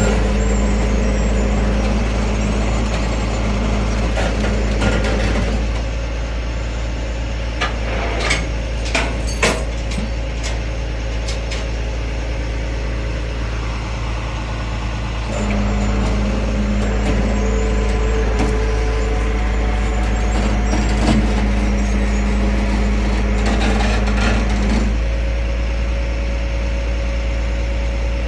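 Tow truck engine running steadily with a deep hum. A higher steady tone sits on top of it for the first few seconds, stops, and comes back for about ten seconds past the middle. A few sharp knocks come around a third of the way in.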